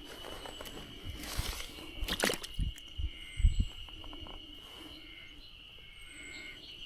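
Outdoor ambience with a steady high whine throughout, a few short high chirps and falling whistles, and scattered knocks with two low thumps near the middle.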